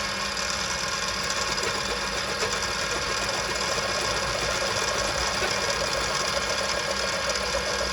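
Small milling machine running steadily, its 5 mm end mill taking a light skimming cut across a brass part.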